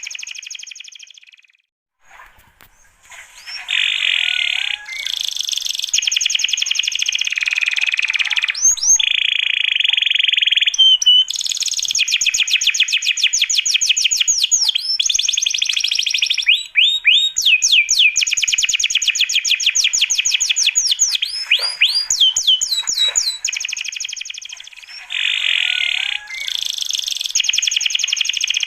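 Songbird song: long, rapid trills of fast repeated high notes in runs several seconds long, with a brief drop-out about two seconds in.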